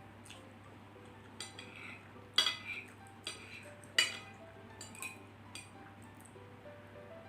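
Eating utensils clinking against a dish while noodles are eaten. There are several sharp clinks, the two loudest about two and a half and four seconds in.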